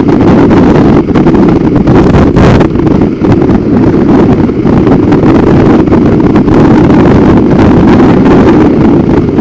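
Heavy wind rumble buffeting the microphone of a motorcycle under way at road speed, with the bike's running and road noise underneath.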